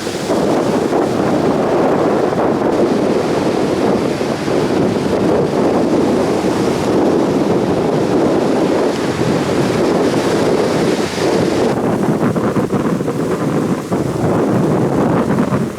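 Heavy surf breaking and rushing up the beach under a strong onshore wind that buffets the microphone, a loud steady roar with no let-up.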